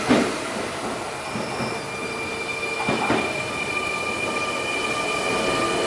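Sotetsu 9000 series electric train pulling out of a station: a steady high electric motor whine of several tones over wheel rumble, slowly getting louder. A sharp wheel click over a rail joint comes at the start and another about three seconds in.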